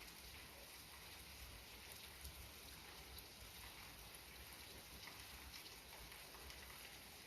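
Gentle rain falling: a faint, steady hiss with scattered small drop ticks.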